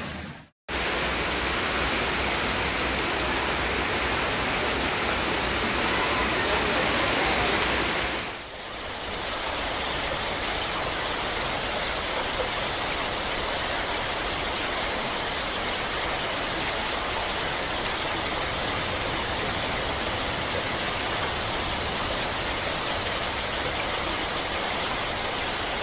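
Steady noise of heavy rain and rushing floodwater, broken by a short gap about half a second in and a brief dip around eight seconds in.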